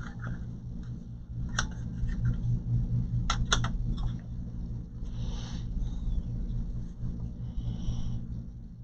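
Light handling noises as parts are worked by hand inside an open all-in-one computer: a few sharp plastic clicks and a brief rustle, over a steady low hum.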